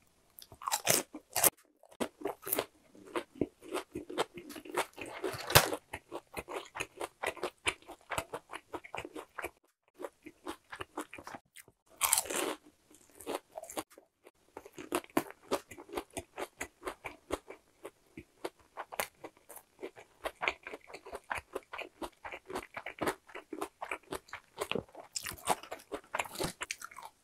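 Close-up crunching of crispy boneless fried chicken being bitten and chewed: a dense run of sharp crackles from the brittle seasoned coating, with a few short pauses.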